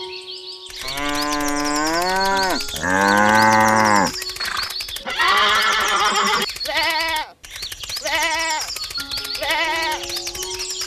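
Farm animal calls over background music: two long, low cattle moos that fall away at the end, then four shorter wavering bleats.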